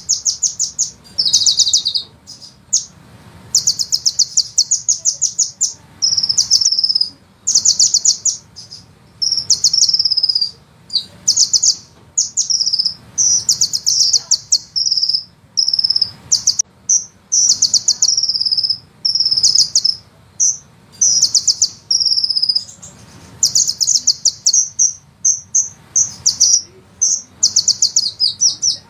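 Sunbird song: very fast, high rolling trills and chattering phrases, repeated one after another with short pauses between them.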